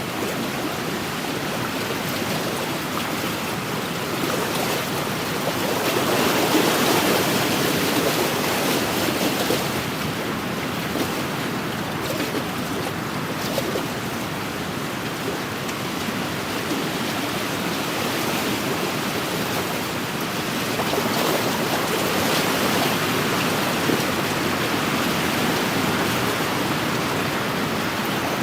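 Small wind-driven waves washing steadily against a lakeshore, with wind blowing over them; the sound swells louder about six seconds in and again about twenty seconds in.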